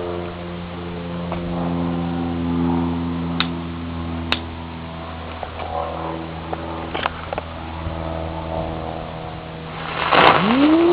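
A steady low engine-like hum with a few sharp clicks. Near the end comes a loud hiss of about two seconds from a spinning-bullet ground-spinner firework burning, with a wail that rises and then falls over it.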